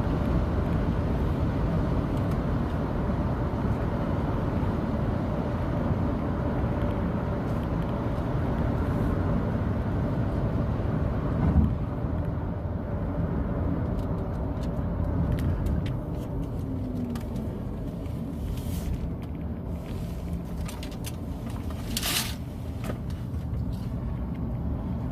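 Car being driven: steady road and engine noise inside the cabin, easing off a little about halfway through as the car slows, with a couple of brief knocks.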